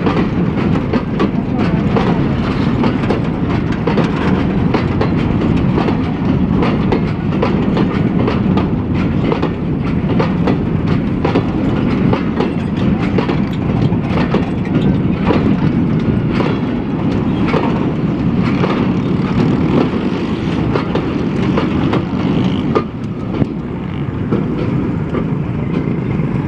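Empty open freight wagons rolling slowly past close by: a steady rumble of steel wheels on the rails with frequent irregular clicks and clanks.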